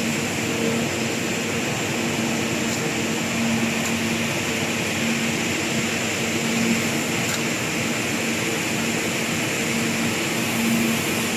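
Automatic multi-torch scaffolding rosette welding machine running: a steady, even noise with a low hum that keeps fading in and out.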